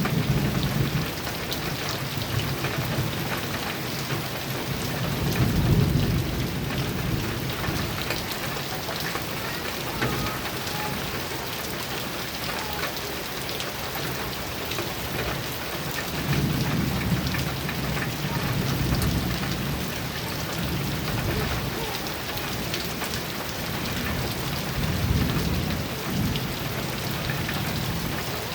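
Heavy rain drumming steadily on a metal roof, with low rolls of thunder swelling and fading several times: about five seconds in, again from about sixteen to nineteen seconds, and near the end.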